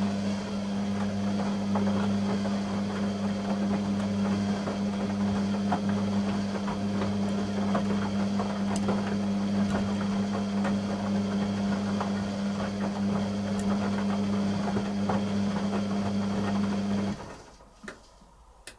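Beko WTG620M1 washing machine with a steady mains hum and light gurgling clicks, typical of its drain pump pumping out. The hum cuts off suddenly about 17 seconds in, followed by two faint clicks.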